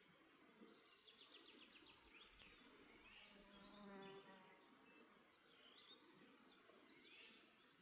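Faint birdsong: scattered short chirps and a quick trill, with an occasional sharp crackle from a wood campfire. An insect buzzes past briefly about four seconds in.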